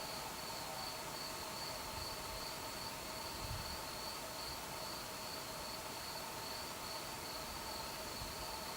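Crickets chirping on a warm summer night, a steady high pulsing trill that runs on without a break.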